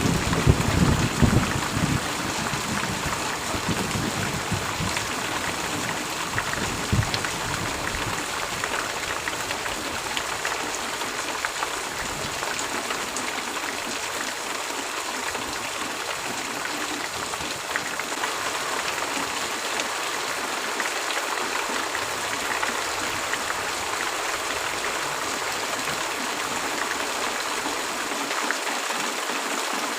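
Heavy rain falling steadily. A low rumble of thunder at the start fades away over the first several seconds.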